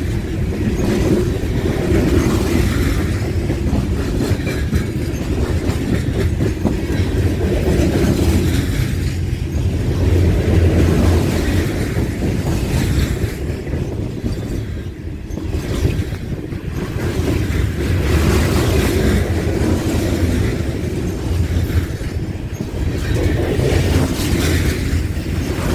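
Coal gondola cars of a freight train rolling past on steel wheels: a steady rumble with clickety-clack over the rails. The loudness swells and dips every few seconds as the cars go by.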